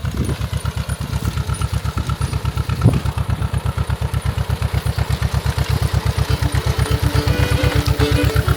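Old tractor engine running at a slow, even pop, about seven beats a second, with a single knock about three seconds in. Music fades in near the end.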